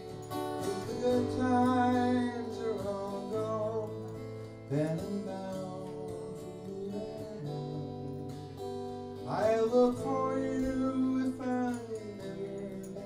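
Live music: acoustic guitar played through an instrumental passage, with a melody line that bends and glides in pitch over sustained chords.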